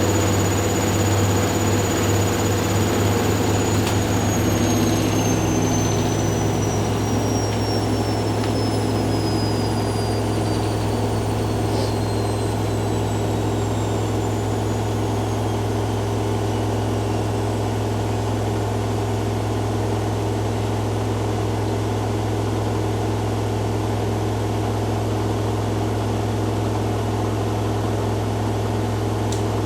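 Two washing machines, a Hoover Dynamic Next DXA610IW3 and a Whirlpool AWM1850, running their spin cycles with a steady low drum hum. A high motor whine holds its pitch for a few seconds, then falls steadily over about fourteen seconds as one drum slows its spin.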